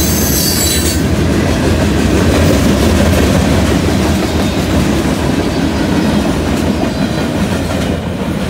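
Loaded freight train's covered hopper cars rolling past close by, their steel wheels rumbling and clattering on the rails. A brief high wheel squeal comes in the first second. The sound eases slightly near the end as the last car goes by.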